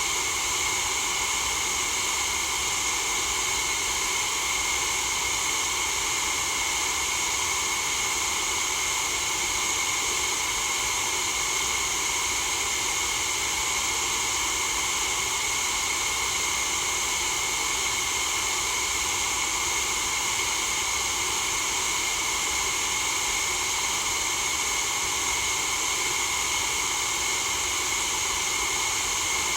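Steady white-noise hiss, unchanging in level and character, its sound strongest in the upper range.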